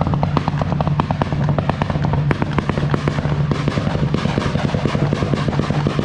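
Tuned Honda Civic engine held at high revs in a rev battle, with a steady drone under a rapid, dense crackle of exhaust pops. Loud throughout.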